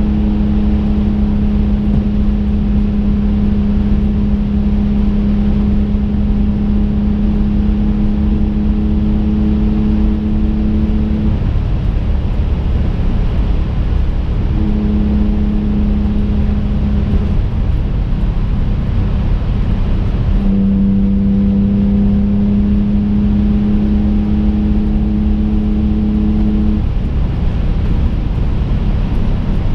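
Twin-turbo Infiniti G35 coupe's 3.5-litre V6 heard from inside the cabin while driving: a steady, even-pitched engine drone at constant revs over a continuous low road rumble. The drone drops out and comes back a few times while the rumble carries on.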